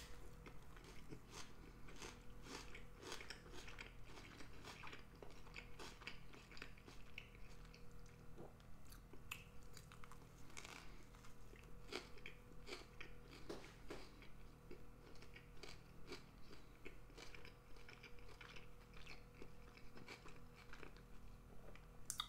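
Faint, close-up chewing of a mouthful of bagel sandwich with cream cheese, cheese and red onion: a steady run of small wet mouth clicks and chews.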